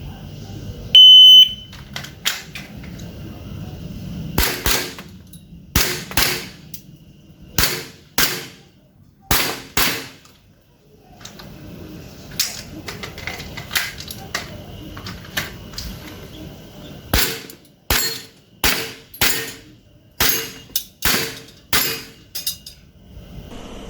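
A shot timer's electronic start beep about a second in, then an airsoft pistol fired in quick double taps, each pair of sharp pops a fraction of a second apart, in two strings with fainter single clicks between them.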